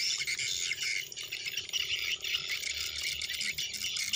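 Light drizzle falling, a steady, dense, high-pitched pattering.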